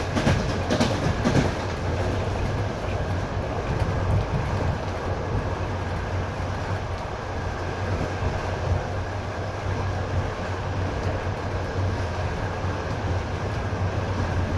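Passenger train carriage running along the track, heard from inside: a steady rumble with a low hum, and a few sharp wheel clicks in the first second or so.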